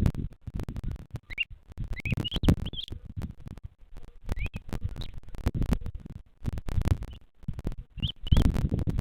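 Short rising bird chirps, a few at a time, over repeated scratching and rustling close to the microphone.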